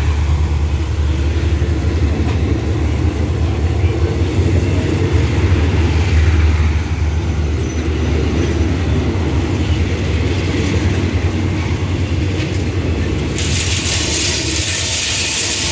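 Passenger coaches of a departing express train rolling slowly past on the rails, a steady low rumble of wheels on track. A steady high hiss joins near the end.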